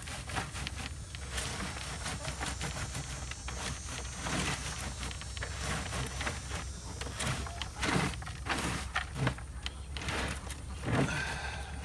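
Compost being sifted by hand through a screen: irregular scraping and rustling strokes of soil and debris, over a steady low rumble.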